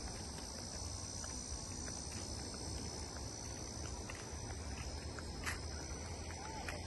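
Steady high-pitched chorus of insects over a low rumble, with a few faint clicks and a short chirp near the end.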